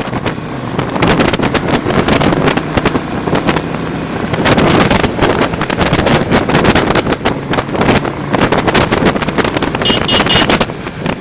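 A vehicle driving over a rough dirt track: a dense run of jolts, rattles and knocks, with wind buffeting the microphone. Near the end come three short beeps in quick succession.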